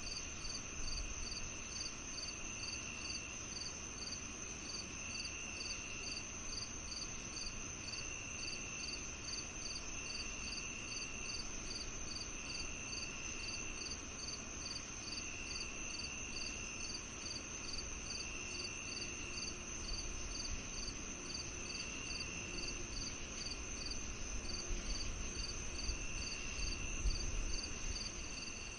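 Crickets chirping in chorus: one steady high trill, a regular chirp about twice a second, and a lower trill that comes in for about a second every two to three seconds.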